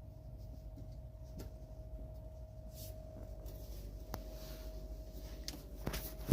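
Faint scratching and a few sharp clicks over a steady hum, with the loudest click near the end.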